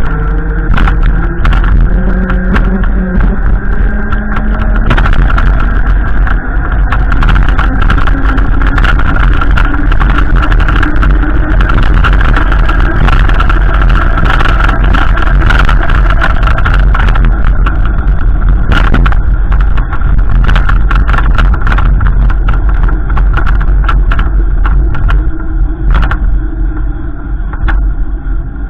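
A car running and driving, with a heavy low rumble and engine pitch that rises and shifts in the first few seconds, plus scattered brief knocks.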